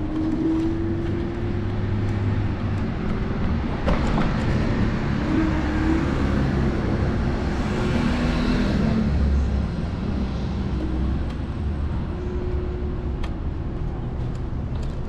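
City street traffic with a steady low road rumble and engine hum. A passing vehicle swells and fades about halfway through.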